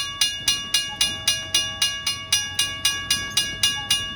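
A railroad crossing bell ringing steadily, about four strikes a second, each strike ringing on, over a faint low rumble of the approaching train.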